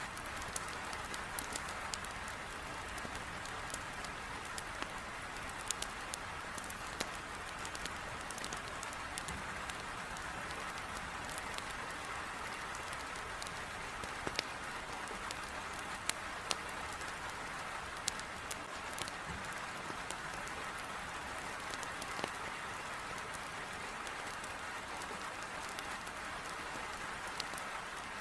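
Heavy rain beating on a window in a steady hiss, with a wood fire in a fireplace giving scattered sharp crackles and pops every second or two.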